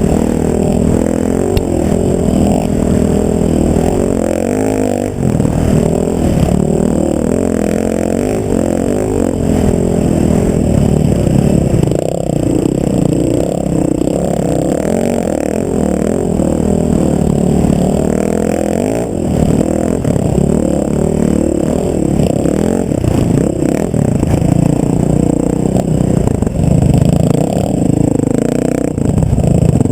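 Vehicle engine running under way, its pitch rising and falling with the throttle, with rattling and scraping throughout.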